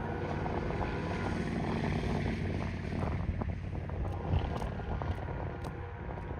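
A train rolling past, a steady rumble of wheels on rail with wind on the microphone. From about four seconds in, sharp clicks come every half second or so.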